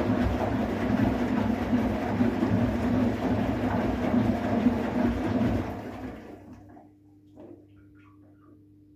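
Bosch WGA252Z0TR washing machine in the cooling phase of its drum-clean program, making a loud rushing, rumbling noise that dies away about six seconds in. A few faint clicks follow.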